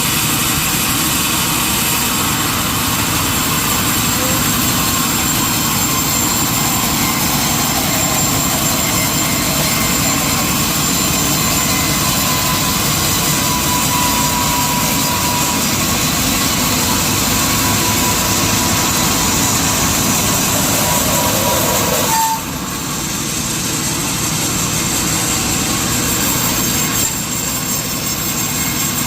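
Industrial sawmill machinery running loud and steady, as a saw works through a log. The noise drops suddenly about three-quarters of the way through, and a little again near the end.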